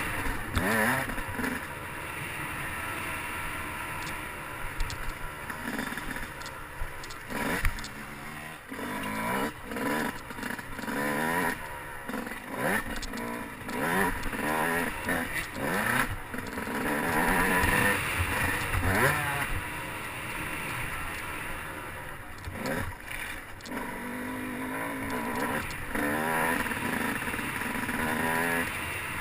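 Motocross dirt bike engine revving up and easing off again and again while being ridden, with scattered knocks and clatter and a sharp knock about seven seconds in.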